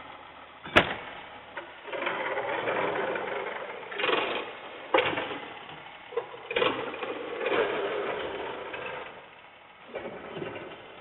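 Garbage truck working, a rattling mechanical clatter with a sharp clank about a second in and several more bangs through the middle.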